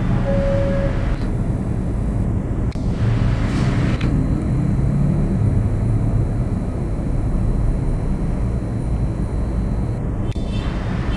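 Steady low rumble of a local diesel passenger train, heard from inside the carriage as it stands at a station and starts to pull away. A short tone sounds in the first second, and a faint high whine runs through the middle.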